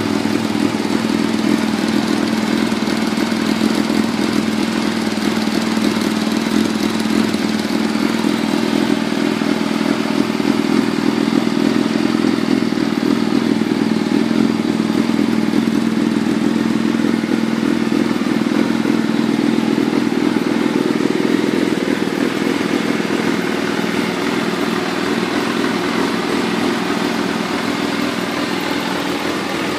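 Kawasaki ZRX400-II's 400cc inline-four running steadily through an aftermarket carbon muffler, its pitch easing down a little in the last several seconds.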